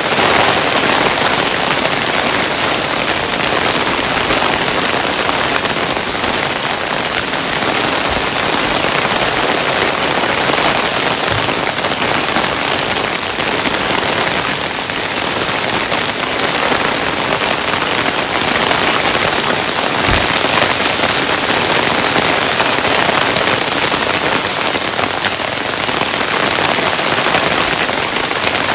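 Hailstones falling, a dense steady patter of many small hits on a hard surface, with an occasional heavier thud.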